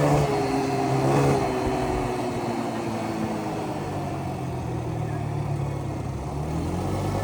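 Yamaha Grizzly 125 ATV's small single-cylinder four-stroke engine under way. It revs briefly about a second in, then its speed falls off gradually as it slows, and it picks up again near the end.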